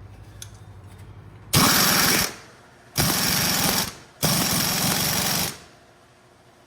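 Pneumatic air tool run in three bursts of about a second each, a rapid hammering rattle, on heavy-truck suspension hardware.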